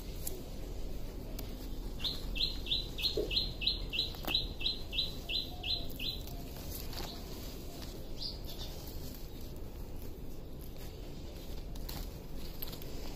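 A bird calling a rapid series of about a dozen identical short, high chirps, about three a second, lasting some four seconds. Faint clicks and rustles of leaves being handled come and go around it.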